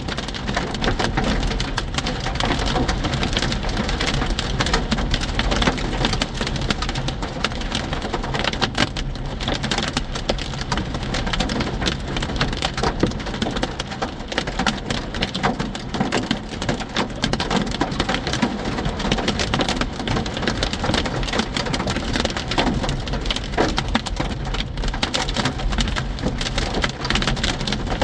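Hail pelting a vehicle in a dense, unbroken clatter of rapid hits, with a low rumble underneath.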